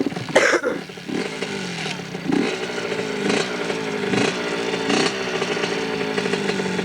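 Dirt bike engine running, its sound swelling and easing about once a second as the throttle is worked, after a brief loud sound near the start.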